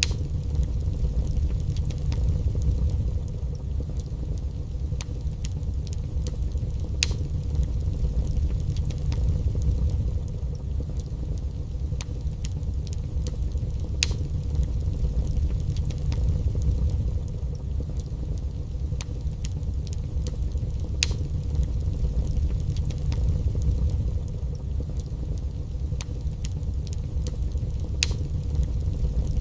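Wood fire burning in a fireplace: a steady low rumble of the flames with scattered sharp crackles and pops every few seconds.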